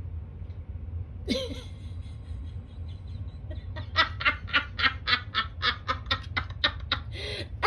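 A person laughing in a quick, regular run of ha-ha pulses, starting about four seconds in, over a low steady hum.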